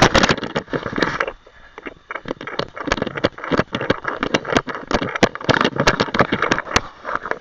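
Rapid, irregular knocks, scrapes and rustling from a camera being jostled during a run, with a short lull about a second and a half in.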